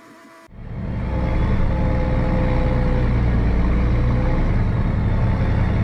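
Case 2670 tractor's turbocharged diesel engine running hard under load, a heavy steady low rumble with a faint whine over it; it cuts in about half a second in. The owner suspects someone has fitted a bigger turbo.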